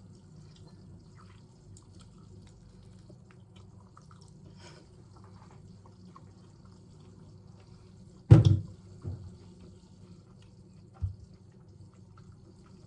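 Kitchen handling sounds while oranges are squeezed for juice: faint low knocks, then one sharp loud knock about eight seconds in, followed by a softer one just after and another a couple of seconds later.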